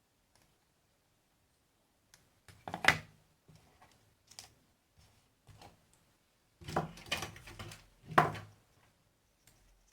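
Irregular knocks, clicks and clatters of tools and parts being handled on a repair bench, the two loudest about three seconds and eight seconds in, with a quick run of smaller clatters just before the second.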